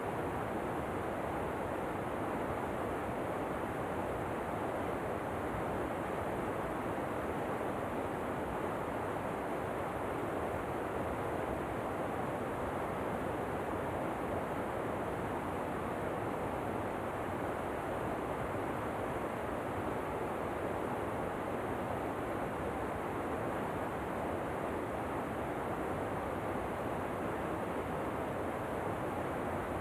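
Steady, unchanging rushing noise of a waterfall, with no separate splashes or pauses.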